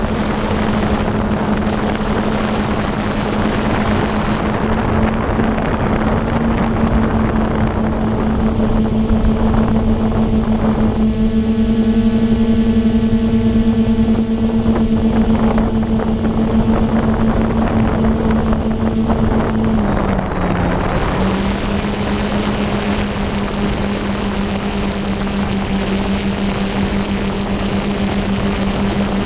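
DJI F550 hexacopter's brushless motors and propellers humming steadily in flight, with a brief dip in pitch about twenty seconds in. A heavy rush of wind noise sits over the hum.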